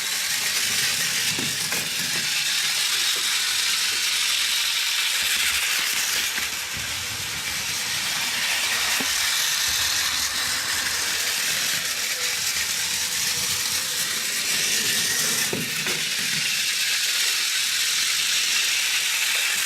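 Plarail E1 Series Max Shinkansen toy train running, its small battery motor and gears making a steady whirr with the rattle of plastic wheels.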